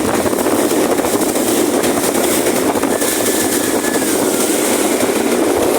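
Jet ski engine running steadily under way.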